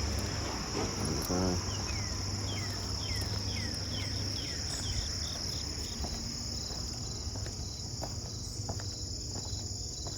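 A steady, high-pitched chorus of crickets or similar night insects, with a short falling chirp repeated about twice a second over it and a low rumble that fades after the first second or so.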